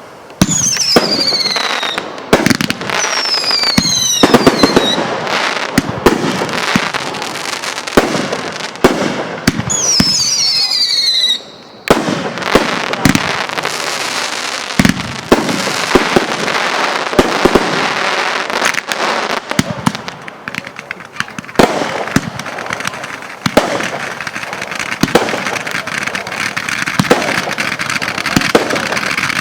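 Consumer fireworks going off: several shrill whistles that fall in pitch, sharp bangs throughout, and from about halfway through a long stretch of dense crackling.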